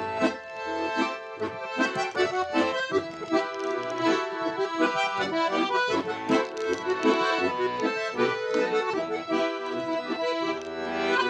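Russian garmon (button accordion) playing the instrumental introduction to a folk song: a quick run of melody notes over sustained chords and a bass line.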